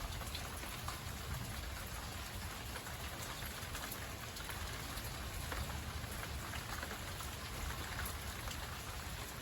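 Steady rain falling in a thunderstorm, a constant wash of noise with many small drop ticks.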